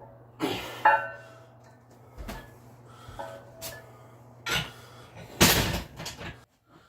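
A run of sharp knocks and clinks, some with a short metallic ring, over a steady low hum, with the loudest burst of noise about five and a half seconds in.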